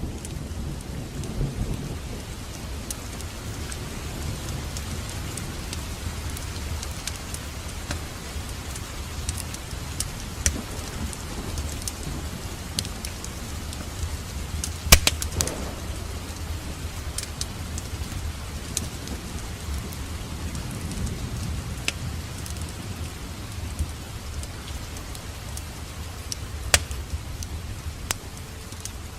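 Wood fire crackling in a fireplace: a steady low rumble of burning with scattered sharp pops, the loudest about halfway through and another near the end.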